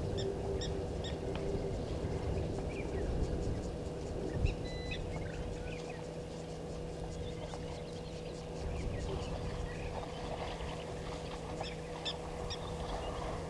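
Scattered short bird chirps and calls over a steady low rumble, with a faint steady electrical hum.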